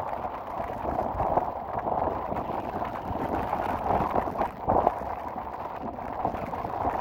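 Strong storm wind buffeting the microphone over rough sea waves surging and breaking on a rocky shore, a dense, uneven roar with a sharper surge about two-thirds of the way through.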